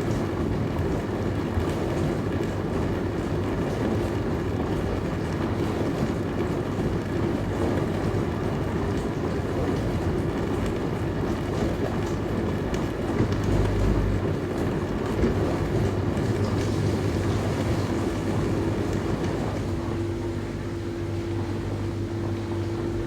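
Dishwasher running a wash cycle: water spraying inside the tub over a steady pump-motor hum, with light ticking of spray against the racks. A low thump comes about two-thirds of the way through. Near the end the spray noise dies down, leaving the motor hum.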